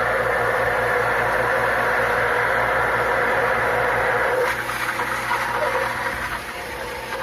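Bolzano 1 hp shallow well water pump running with a steady hum. About four and a half seconds in, the sound drops somewhat in level and changes character.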